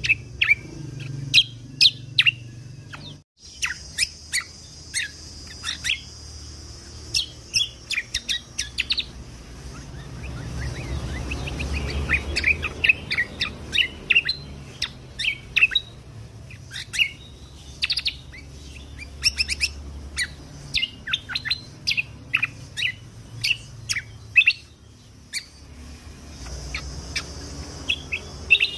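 A kecial kombok (cucak kombo) songbird singing in rapid runs of short, sharp, high chirps and quick whistled notes. It pauses briefly about 3 seconds in, then carries on in fast volleys.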